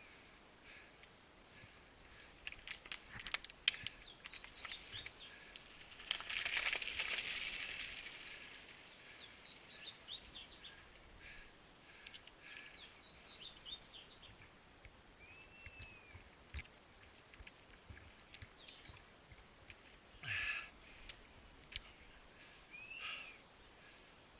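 Birds chirping and calling in short arched notes and quick chirp series, over a faint steady high-pitched tone. A brief rush of noise comes about six seconds in.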